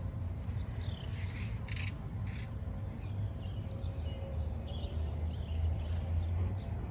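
Small birds chirping outdoors, short falling calls scattered throughout, over a steady low rumble. A few brief rustles or clicks come in the first couple of seconds.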